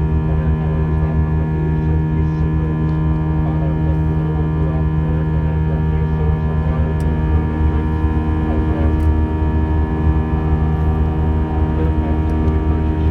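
Steady drone inside the cabin of an Airbus A320 in flight: engine and airflow noise holding a constant low hum with several fixed tones above it.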